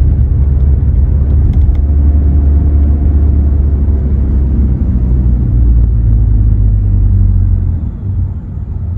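2017 Honda Accord LX's 2.4-litre four-cylinder running through a muffler-deleted exhaust while driving, heard from inside the cabin as a steady low drone. It eases off slightly near the end.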